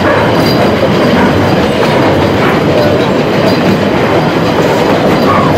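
Narrow-gauge steam train's carriages running steadily along the track, with wheels rumbling and clicking over the rails.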